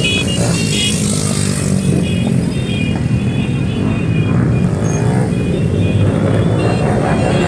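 A group of motorcycle engines running together, steady and loud, with music playing over them.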